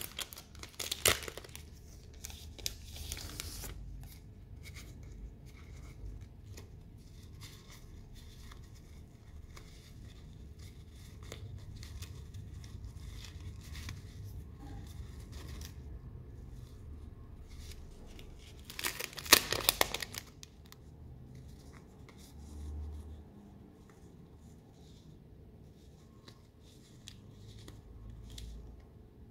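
Stationery packaging being unwrapped by hand: paper or plastic rustling and tearing. There are two louder bursts, about a second in and again around nineteen seconds in, with small rustles and clicks between.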